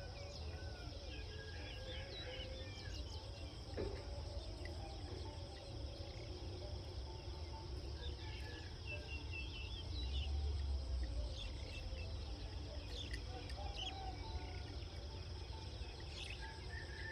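Rural outdoor ambience: a steady high insect chirring with scattered short bird chirps over it and a low rumble underneath that swells briefly about ten seconds in.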